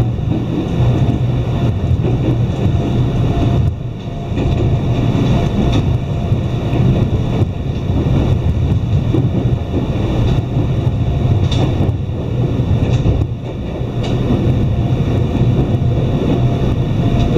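Iyo Railway Takahama Line electric train running, heard from inside the passenger car: a steady rumble of wheels on rails with a low hum, briefly dipping about four seconds and again about thirteen seconds in.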